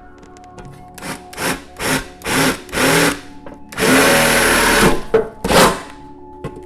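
Power drill run in a series of short trigger bursts, the motor pitch rising and falling with each, then one longer run about four seconds in and a last short burst after it.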